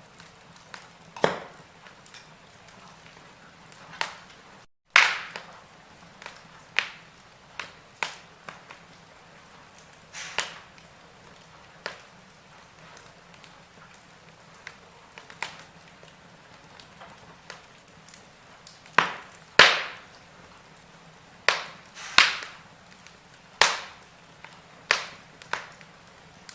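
Wood fire burning in a fireplace, crackling with irregular sharp pops, some loud and some faint, over a low steady hiss. The sound drops out completely for a moment just before five seconds in.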